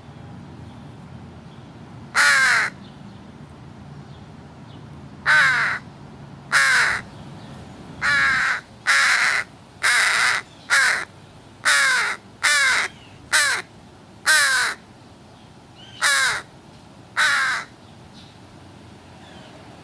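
American crow cawing close by: about thirteen loud, harsh caws in irregular runs, each dropping in pitch.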